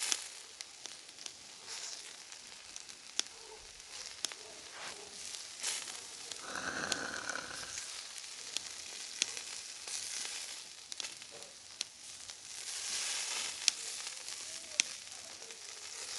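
Sliced pork sizzling on fire-heated river pebbles: a steady frying hiss with sharp pops every second or two, swelling louder twice in the second half.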